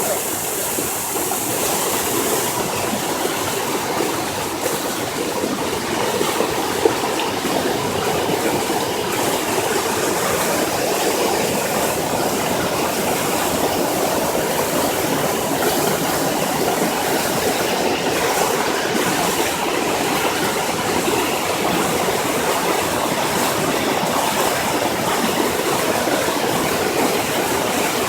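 Swollen floodwater rushing past in a steady, loud, unbroken roar.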